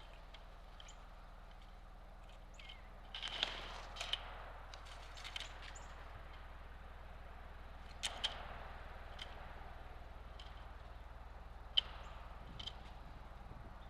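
Birds at a backyard feeder: scattered short, sharp chips and clicks, with two brief rushing sounds about three and eight seconds in.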